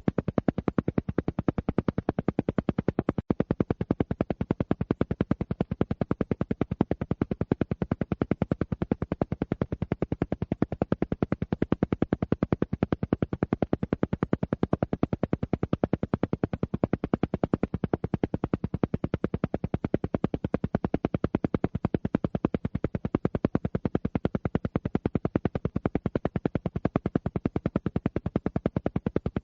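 Alpha-wave brainwave-entrainment sound: a steady, unbroken train of rapid, evenly spaced pulses, as in an isochronic tone.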